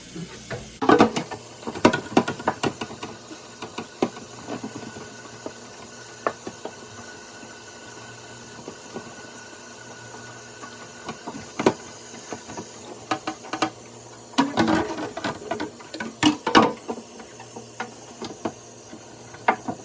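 Irregular knocks, clicks and rattles of refrigerator shelves, bins and other removable parts being handled, in two busier spells, near the start and about two-thirds through, with a quieter stretch between.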